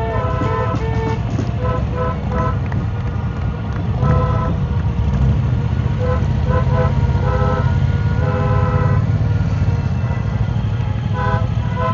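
Vehicle horns tooting in short, repeated beeps at irregular intervals, over the steady rumble of motorcycle engines running in a slow procession.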